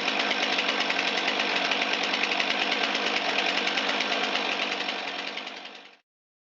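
Stihl MS362 two-stroke chainsaw engine running steadily after a spark plug replacement, then fading out near the end.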